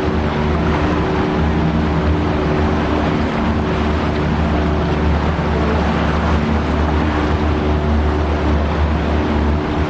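Tour boat's motor running steadily, a low hum with a few constant tones above it, over a haze of water and wind noise.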